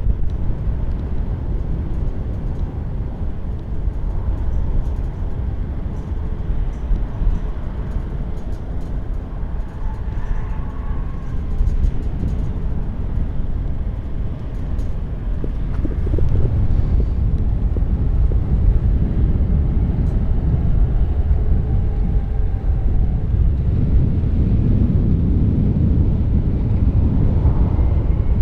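Strong wind buffeting the microphone, mixed with the rumble and faint whine of jet aircraft engines, growing louder after about halfway.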